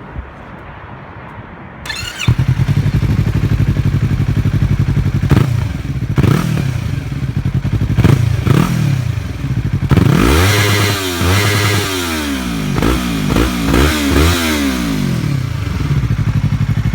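Yamaha R3's parallel-twin engine idling, then revved repeatedly in short blips. The sound steps up in loudness about two seconds in. From about ten seconds there is a run of quick revs, each rising and falling in pitch.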